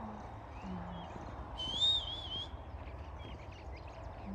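A single wavering whistle, just under a second long, rising and falling in pitch about halfway through, over steady outdoor background noise.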